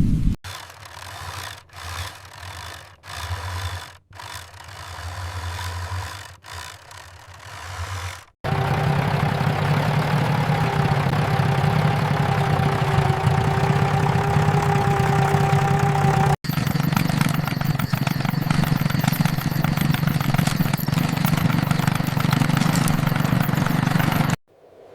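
A vehicle engine running steadily, cut into separate clips. The first third is quieter and choppy; from about a third of the way in, a loud steady drone carries a constant whine over it.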